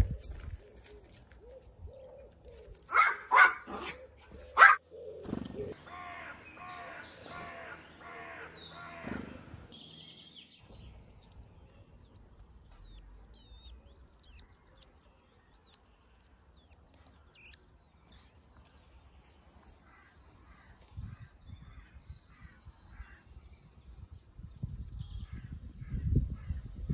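Birds calling: a few loud calls in the first five seconds, then a run of short, high, falling chirps from small birds.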